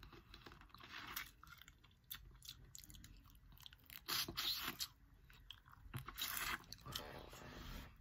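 Close-up chewing and biting on a snow crab leg: faint wet chewing with scattered crunches, and louder bursts about four and six seconds in.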